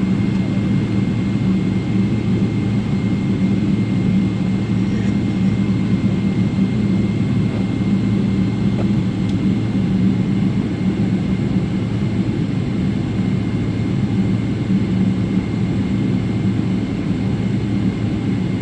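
Steady low drone of a Boeing 777 airliner's engines and cabin systems heard from inside the cabin, with a steady hum and no change, as the jet runs on the ground before take-off.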